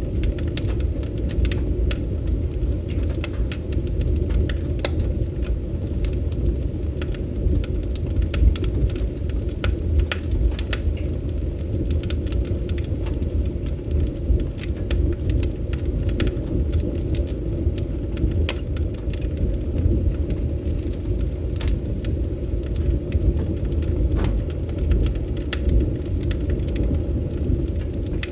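Fire in a fireplace burning with a steady low rumble and frequent, irregular sharp crackles and pops.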